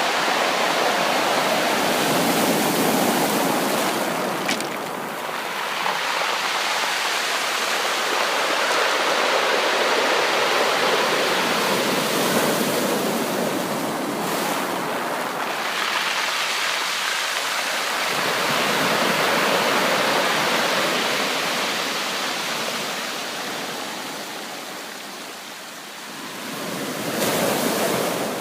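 Sea waves breaking and washing on a shore: a continuous rushing surf that swells and eases every several seconds, with a quieter lull late on followed by another surge.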